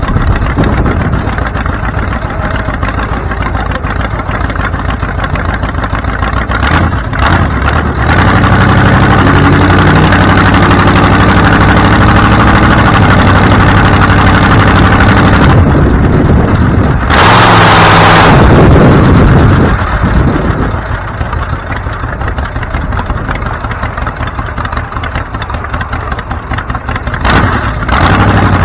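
A vehicle engine running while driving. It grows louder and rises in pitch about eight seconds in as it accelerates, with a loud rushing noise for a couple of seconds around the middle, then settles lower.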